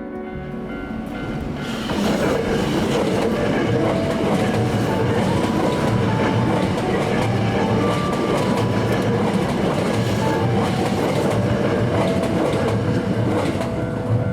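A Hankyu electric train passing a level crossing, wheels clattering over the rails. It comes in sharply about two seconds in and stays loud and steady until near the end.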